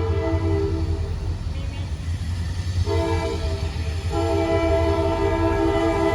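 Diesel freight locomotive sounding its air horn: a chord blast that ends about a second in, then after a pause a second blast, then a short break and a long held blast near the end. The locomotive's engine rumbles low underneath.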